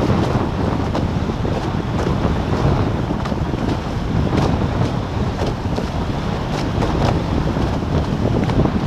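Steady wind buffeting the microphone over the rush of water past the hulls of a racing catamaran under sail, with a few light splashes.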